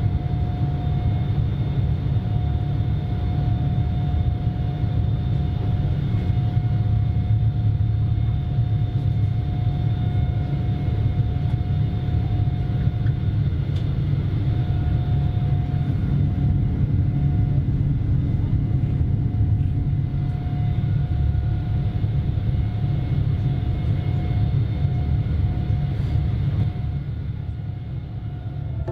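Steady low rumble inside the cabin of a Boeing 787-9 airliner, the engine and airflow noise of the jet in flight, with a faint steady hum over it. It eases slightly near the end.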